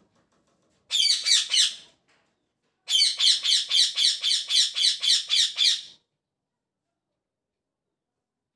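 Pet parrot chirping and squawking in rapid, evenly repeated notes, about four a second: a short run of about five notes about a second in, then a longer run of about a dozen lasting some three seconds.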